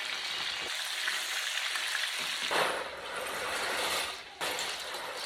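Food sizzling in hot oil in a pan, a steady hiss that gets louder for a second or so past the middle and dips briefly near the end.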